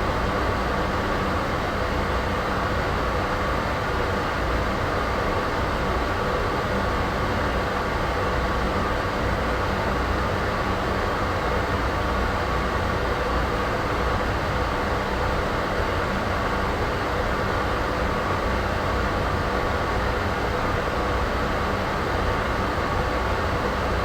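Steady ambient noise, even and unchanging, heavier in the low and middle range, with a faint constant hum running through it.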